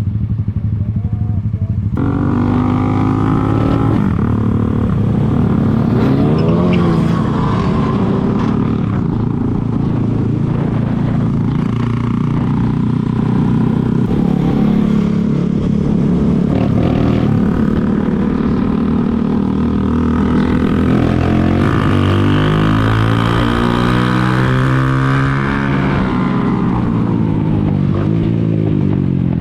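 Zanella Sapucai 200's single-cylinder engine running steadily while riding, with wind noise coming in about two seconds in. The engine pitch rises and falls with the throttle, most clearly in the last third.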